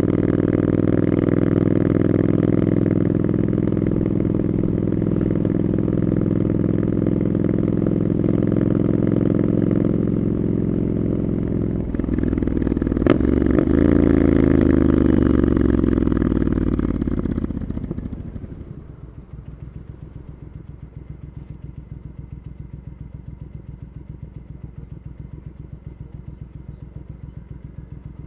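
Triumph Scrambler 900's parallel-twin engine through Arrow exhaust pipes, running steadily under way. About halfway through there is a sharp click and the note rises as it pulls harder, then it dies away to an even, throbbing idle for the last third.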